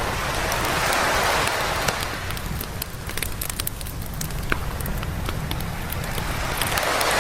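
Waves washing up a beach, one swell of surf about a second in and another near the end, over the steady crackling and popping of a wood campfire.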